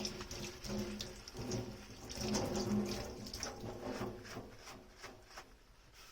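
Tap water running into a kitchen sink while dishes are rinsed, with scattered clinks and knocks of tableware; it grows quieter over the last couple of seconds.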